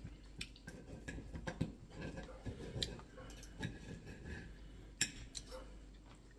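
Cutlery clinking and scraping against dinner plates during a meal, in scattered light clicks, with a sharper clink about five seconds in.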